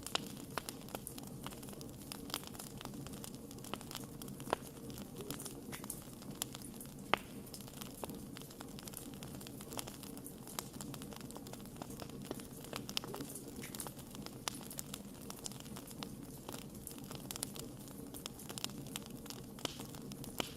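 Campfire of burning wood crackling, with irregular sharp pops and snaps over a steady low rush of flame. One pop about seven seconds in is louder than the rest.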